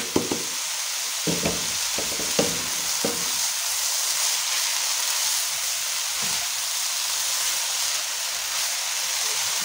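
Grated radish sizzling in ghee in a pan as it is stirred with a spatula, its water almost cooked off: a steady frying hiss, with a few soft scrapes and knocks of the spatula in the first three seconds.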